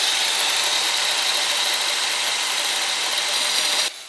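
Angle grinder cutting a shallow score line into a natural stone, a steady high grinding whine. The line is only scored, not cut through, so the stone can be snapped with a tap. It stops suddenly near the end.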